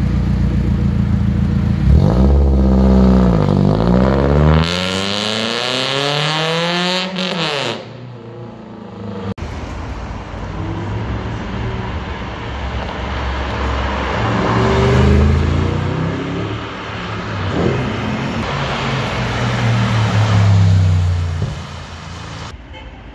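Car engines revving and accelerating on a street, in several short clips. First a BMW 3 Series coupe pulls away with its engine note climbing and dipping, then a loud rasping stretch that cuts off suddenly; after that, passing cars' engines swell and fade twice as they accelerate by.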